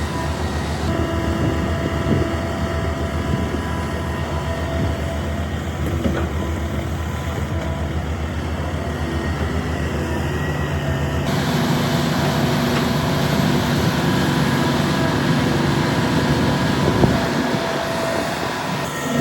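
Heavy diesel earthmoving machinery running steadily, with a few sharp knocks. The sound changes abruptly about a second in and again about eleven seconds in.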